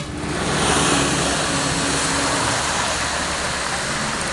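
Steady rushing roar of a waterfall, with a vehicle engine humming beneath it.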